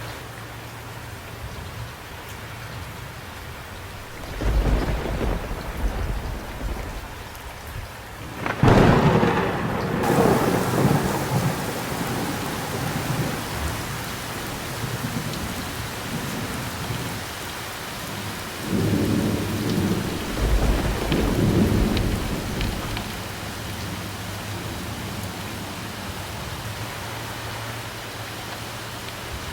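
Thunderstorm with steady rain. A low rumble of thunder comes about four seconds in, then a loud crack of thunder a few seconds later that rolls on for several seconds. The rain's hiss grows brighter and heavier after it, and another rumble rolls through later on.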